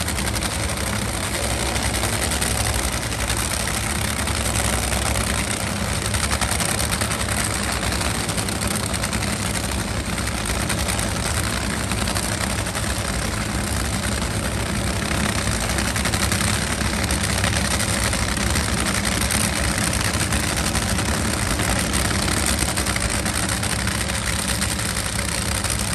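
Race car engine idling loudly and steadily, without revving.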